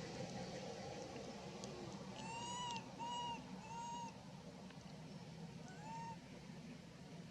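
A baby monkey crying with short, high-pitched arched calls: three in quick succession about two seconds in, then one more a couple of seconds later.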